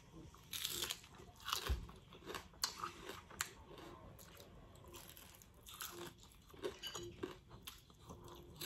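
Close-up crunching and chewing of a battered, deep-fried sweet potato and shrimp fritter: irregular crisp bites, thickest in the first three seconds or so, then slower chewing.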